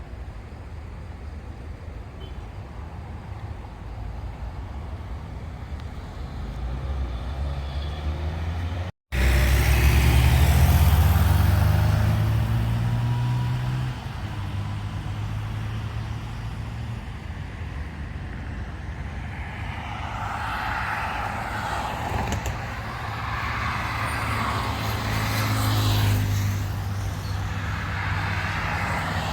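Road traffic on a highway: cars and heavier vehicles passing, engine rumble and tyre noise swelling and fading as they go by. The sound cuts out briefly about nine seconds in, then comes back with a louder low rumble.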